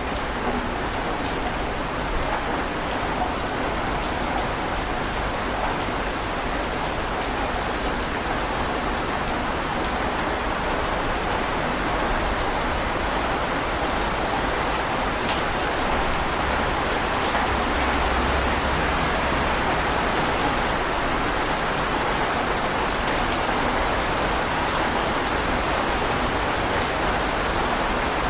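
Heavy rain falling steadily, a dense even hiss with scattered sharp drop ticks, and a low rumble that swells briefly about two-thirds of the way through.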